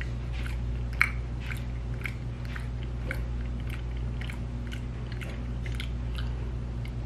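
A person chewing a mouthful of fufu, soft sticky dough: wet mouth smacks about twice a second, one louder about a second in, over a steady low hum.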